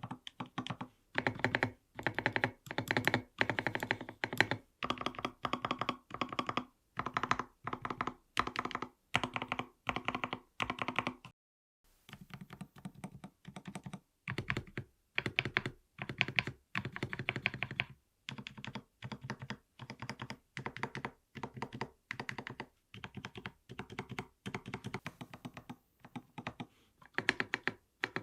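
Mechanical keyboard typing test on an mStone keyboard: its stabilized long keys are pressed repeatedly in short runs of rapid clacks. About twelve seconds in, after a brief pause, the keys sound softer and duller, as the test moves from milky switches to silent milky switches.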